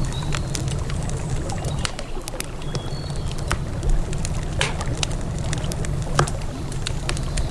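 Wood campfire crackling with irregular sharp pops over a steady low rush of a flowing river. A short high bird call sounds near the start and again about three seconds in.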